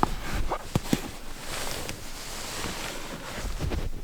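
A few light knocks and rustles in the first second, over a steady hiss of wind-like noise.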